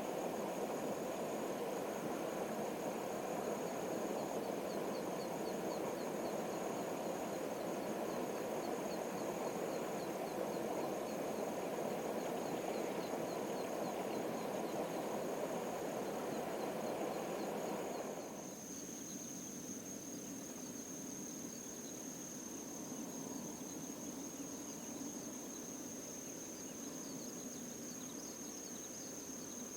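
Outdoor ambience: a steady, high-pitched insect trill over a low, steady rushing noise. About two-thirds of the way in, the rushing noise drops away suddenly and the trill stands out more clearly.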